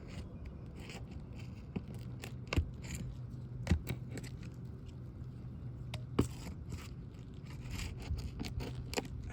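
A metal tool scraping and clicking against roof shingles while roofing nails are pried out, with a few sharper knocks. The nails have pulled through the shingle.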